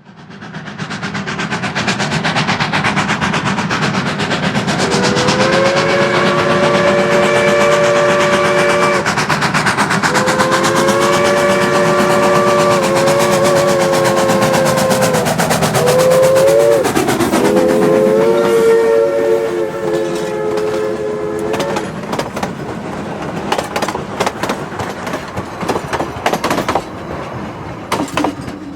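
Durango & Silverton narrow-gauge K-36 steam locomotive 482 working past with its exhaust chuffing, sounding a three-note chime whistle in the grade-crossing pattern: long, long, short, long. The whistle's pitch drops as the engine passes, and the train's wheels then click over the rail joints.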